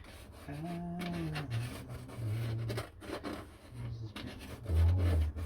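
Light scratching and rubbing on wood, like a pencil marking a bird-box board, with a brief low hum about half a second in and a louder low thud-like sound near the end.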